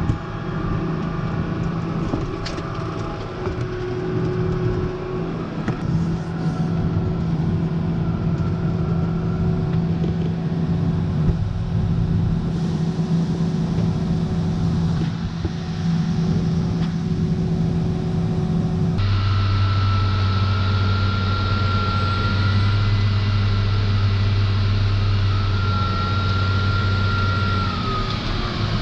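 Farm harvest machinery's diesel engine running steadily under load. About two-thirds of the way through the sound changes abruptly to a lower engine note with a high, steady whine over it.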